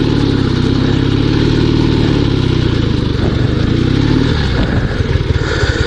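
Dnepr 16 sidecar motorcycle's flat-twin boxer engine running under load on a sandy track, its pitch rising and falling with the throttle. The engine note eases off about four and a half seconds in.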